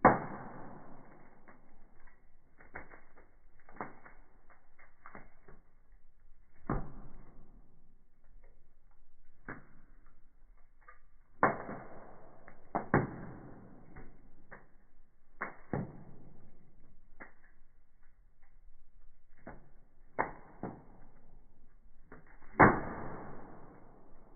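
Firewood burning in a fireplace, crackling with irregular sharp pops of varying strength; the loudest pops come at the very start, twice around the middle and once near the end.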